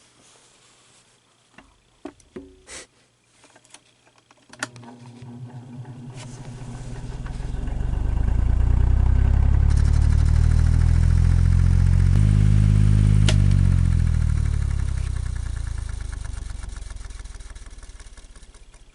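A few clicks, then an electric fan motor starts, spins up to speed and runs with a low hum and a scratching noise, then slows down and fades out. The owner's theory is that the scratching at speed is the rotor, which has too much end play, pushing back and rubbing on the bearing at the rear of the motor casing.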